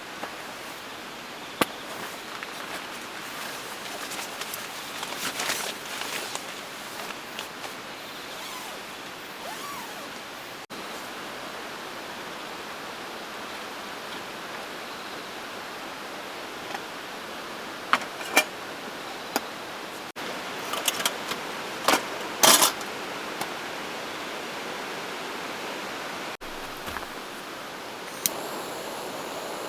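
Steady rush of a flowing river, with scattered clinks and rattles of camping gear being handled and set up, a cluster of louder knocks and clatters a little past halfway.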